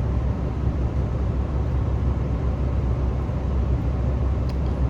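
Steady low rumble of a stationary diesel railcar's engine idling, heard inside the passenger cabin, with a couple of faint clicks near the end.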